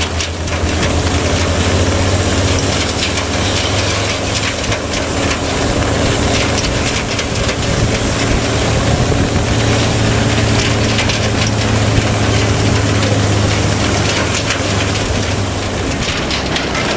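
Hino truck's diesel engine running steadily under load on a steep climb, with a dense clattering rattle over it.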